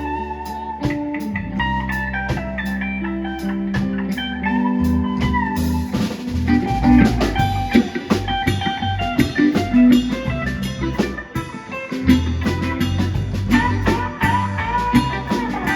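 Live blues-rock band playing an instrumental break: a lead guitar picks a line of sustained, bending notes over bass guitar and drum kit. The drumming gets busier about six seconds in.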